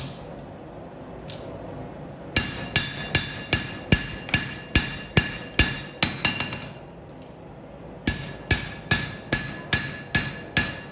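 Hand hammer striking steel on an anvil in steady runs of about two and a half blows a second, each blow ringing. The blows pause for about two seconds at the start and again briefly about seven seconds in.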